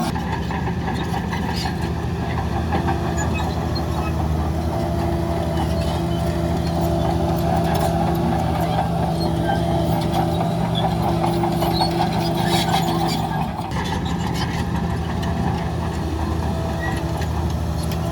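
Heavy diesel engine of earthmoving machinery running steadily, with occasional clanks. Its note shifts about thirteen seconds in.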